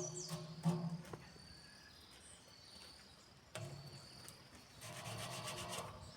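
Sanding on the iron body of a homemade iron fireplace to clean it after rust remover: steady rubbing that stops about a second in and starts again about three and a half seconds in.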